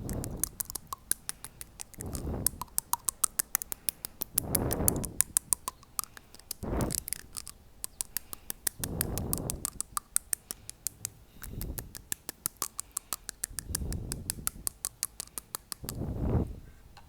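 Teeth being tapped close to the microphone: rapid, sharp clicks, several a second, with a soft wind-like whoosh about every two seconds.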